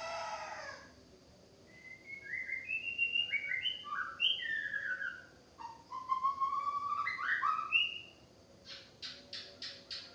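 White-rumped shama singing a string of clear whistled phrases, some gliding up and some down, for about six seconds. A rooster's crow trails off in the first second, and near the end comes a quick run of short sharp notes, about five a second.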